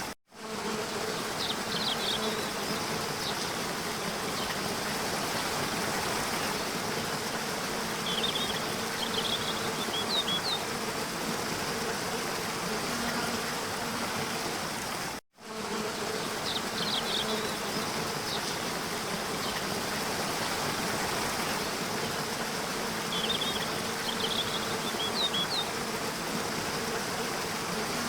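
Steady rushing water of a waterfall, with a faint steady hum underneath and small clusters of high chirps now and then. The sound cuts out for a moment near the start and again about 15 seconds in, where the recording loops.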